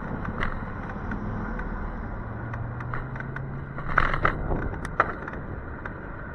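Ride noise from an e-bike on a wet road: steady wind and road hiss, a low hum through the first four seconds, and sharp rattles and clicks, loudest about four seconds in with a single click a second later.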